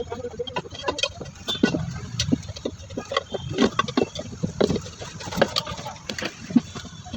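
Irregular metallic clinks and knocks of hand tools working on a motorcycle's front wheel as its tyre is refitted, over a steady low rumble of street traffic.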